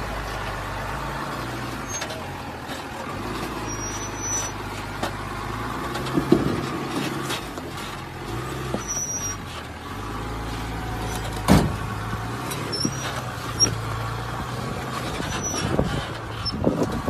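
A truck engine running steadily, with several short high squeaks, scattered clicks and one sharp knock about eleven and a half seconds in.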